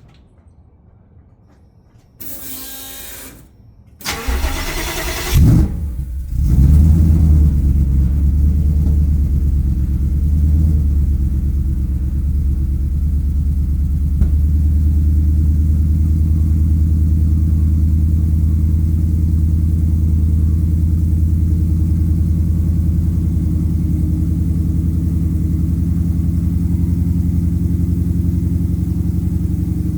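A Ford Coyote 5.0 V8 breathing through long-tube headers, a Magnaflow muffler and two 3-inch Vibrant resonators is started cold. A short burst of noise comes about two seconds in, then the starter cranks and the engine catches about six seconds in with a brief flare. It then runs at a steady, deep cold idle.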